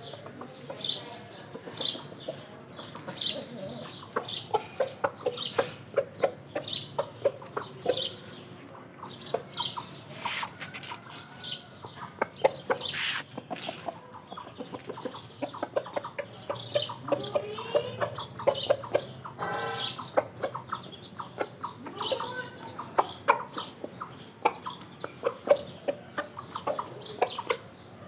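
Aseel chickens clucking: many short, repeated clucks, with a couple of brief noisy bursts partway through.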